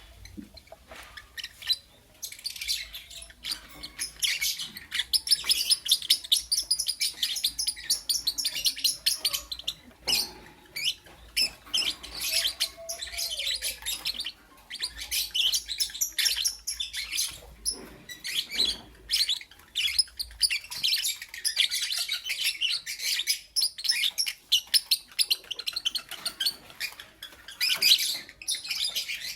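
Lovebirds chirping and chattering in fast, high-pitched runs of chirps, broken by a couple of brief lulls.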